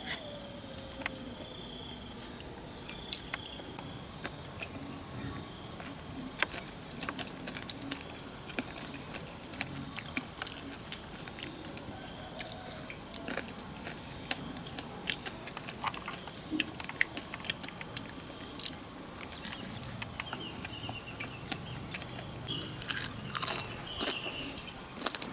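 Fried potato slices being bitten and chewed close to the microphone, many short sharp clicks and smacks.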